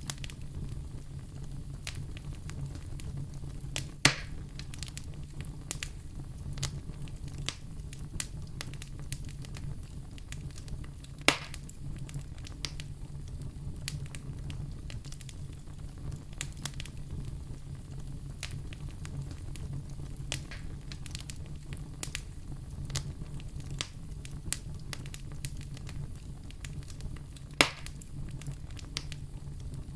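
Wood fire crackling in a fireplace: many small crackles over a steady low rumble, with three louder sharp pops, about four seconds in, about eleven seconds in, and near the end.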